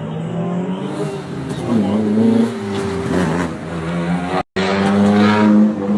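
Car engine running loud and revving, its pitch rising briefly about two seconds in; the sound drops out for an instant about three-quarters of the way through, then the engine carries on.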